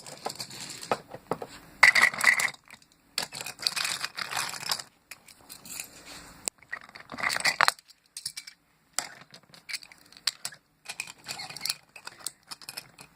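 Toy engine and trucks clattering along toy railway track: irregular clicks and rattles, with a short pause partway through.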